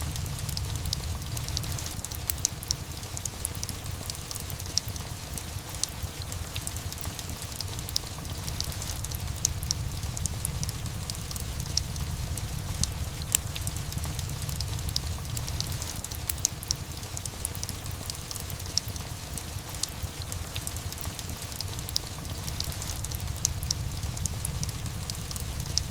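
Steady rain with a low rumble underneath, mixed with a fireplace crackling in many short, sharp pops.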